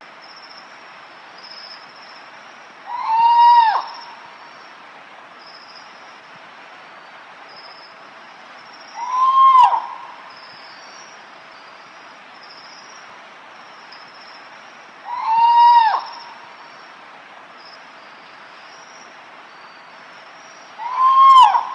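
Spot-bellied eagle-owl (the Ulama or 'devil bird') giving four loud scream-like cries about six seconds apart. Each cry lasts about a second and rises then falls in pitch, over a steady faint hiss and high chirping.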